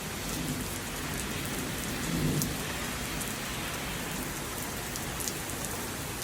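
Heavy thunderstorm rain pouring steadily, a dense hiss with scattered sharp drop ticks.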